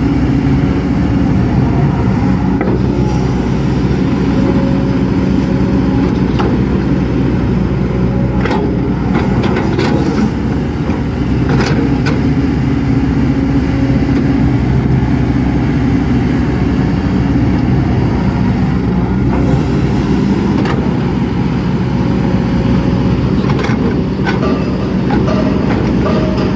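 Kobelco excavator's diesel engine running steadily under working load, with a faint high whine above it and occasional short clanks and knocks from the machine at work.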